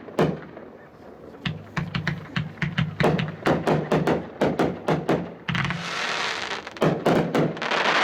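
Two identical 18-shot, 500-gram fireworks cakes firing at once: a rapid run of sharp launch thumps and bangs, then a long hissing, crackling burst about five and a half seconds in and another near the end.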